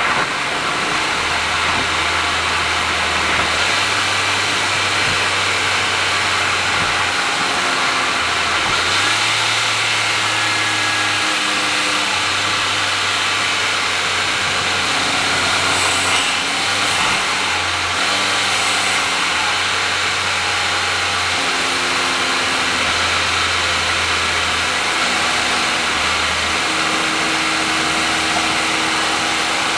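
Honda S660's turbocharged three-cylinder engine with an HKS aftermarket exhaust, running steadily while driving, its low drone shifting pitch in small steps over steady tyre and wind noise.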